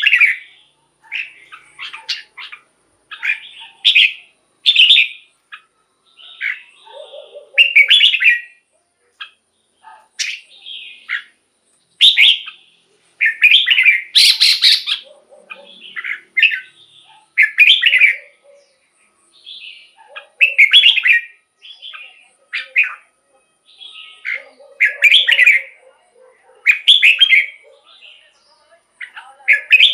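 Red-whiskered bulbul singing: short, loud, warbling phrases repeated every second or two with brief pauses between them.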